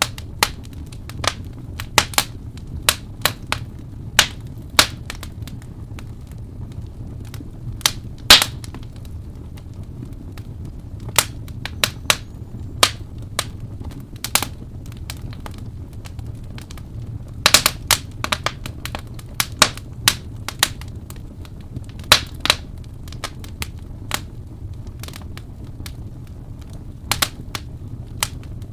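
Wood fire crackling and popping: sharp, irregular snaps over a steady low rumble of burning, with a few louder pops and some clusters of quick snaps.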